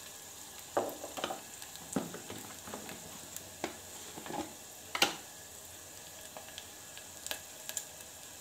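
Onions and ginger-garlic paste frying in oil in a clay pot: a faint steady sizzle with scattered sharp pops, the loudest about five seconds in.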